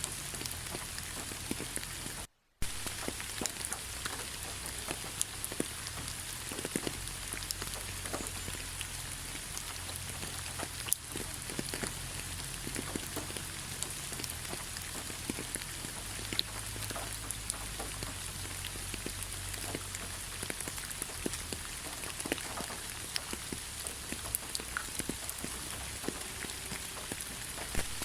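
Steady rain falling, an even hiss with many separate close drop hits. There is a brief dropout to near silence about two seconds in.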